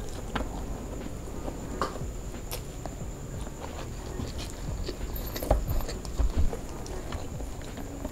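A person chewing a mouthful of rice and fried duck close to the microphone: soft, irregular wet clicks and smacks, with a few louder knocks a little past the middle.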